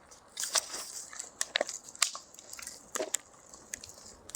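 Wood fire crackling: irregular sharp snaps and pops with a light hiss between them.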